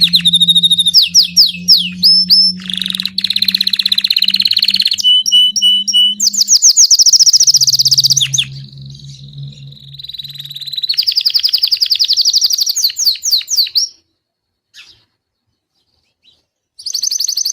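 Belgian canary singing long, fast trills and rolling phrases one after another, then falling silent for a couple of seconds near the end before starting again.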